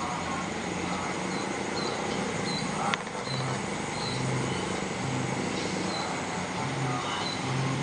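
Rural outdoor ambience: a steady background hiss with small high chirps repeating every half second or so, typical of birds, a low note repeating several times in the second half, and one sharp click about three seconds in.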